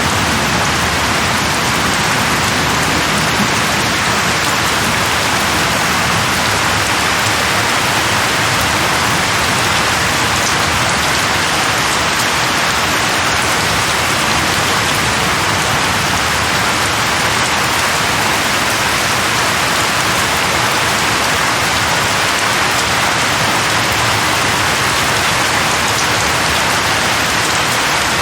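Steady, heavy rain falling on a surface, a dense even hiss with no breaks.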